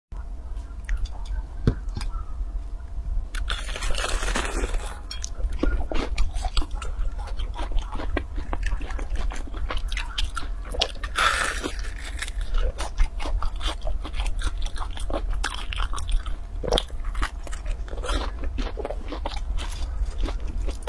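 Close-up biting and chewing of deep-fried Chinese sugar cakes (tanggao): the crisp fried crust crunches, with many small wet mouth clicks. The loudest crunching comes about 4 seconds in and again about 11 seconds in, over a steady low hum.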